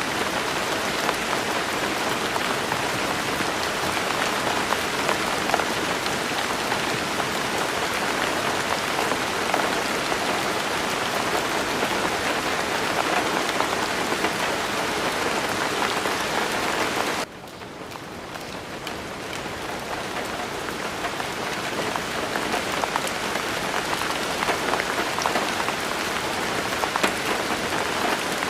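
Steady rainfall, a dense even hiss with scattered individual drop ticks. About 17 seconds in it suddenly drops much quieter, then builds back to full strength over the next few seconds.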